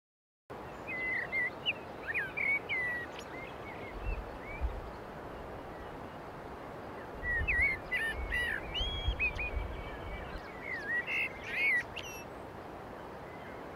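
A songbird singing in two bouts of quick, warbling chirped phrases over a steady background hiss, with a few low rumbles in between.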